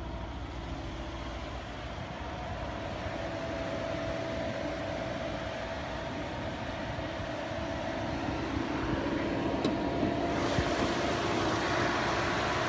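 Mercedes-AMG GLS 63's 5.5-litre bi-turbo V8 idling steadily with a faint whine. The sound grows gradually louder and gets brighter near the end.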